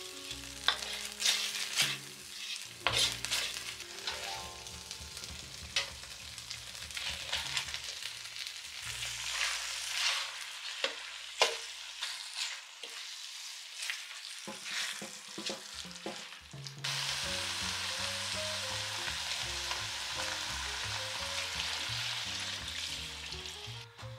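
Red curry paste and coconut cream frying in a brass wok, with a metal spoon scraping and clicking against the pan as it is stirred. About two-thirds of the way through, the clicking stops and a steady, even sizzle carries on until near the end.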